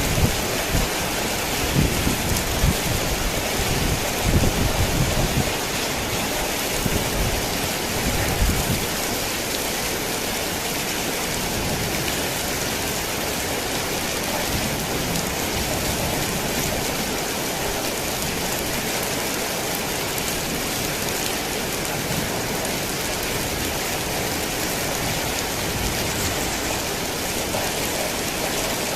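Heavy rain on a tin roof, a dense steady hiss. Low rolls of thunder rumble under it for the first third and fade away about nine seconds in.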